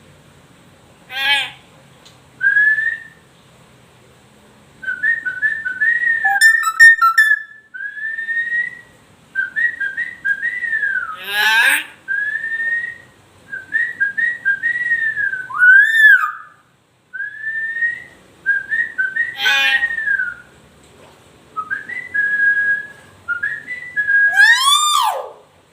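Hill myna whistling a long run of short clear notes and slides in phrases. Four loud shrill calls break in, the last a steep rising-and-falling screech near the end.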